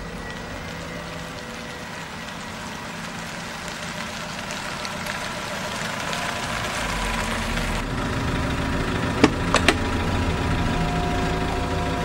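Car engine running at a slow idle as the car draws up and waits, its hum growing gradually louder, with two sharp clicks a little over nine seconds in.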